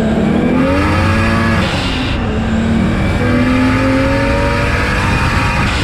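Turbocharged 1JZ inline-six in a Lexus LS400 drift car, heard from inside the cabin while driving: the engine pitch rises, drops briefly about two seconds in, then climbs slowly again.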